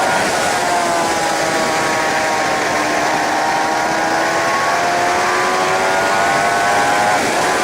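Suzuki GSX-R 750 K7's inline-four engine pulling under load, its pitch climbing slowly as it holds a gear, with a change in pitch near the end. Heavy wind rush sits under it.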